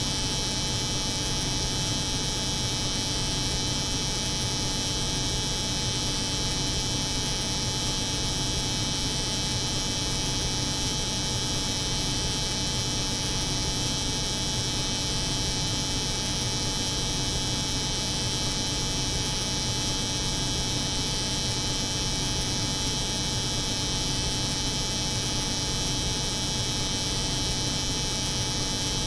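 Steady layered drone of a cold room's hum and an electric hair clipper's buzz, unchanging throughout.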